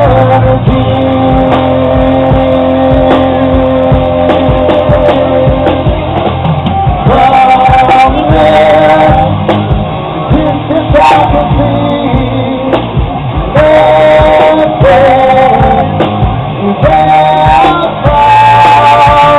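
A rock band playing live: a singer's long, wavering vocal lines over electric guitar, bass and drums.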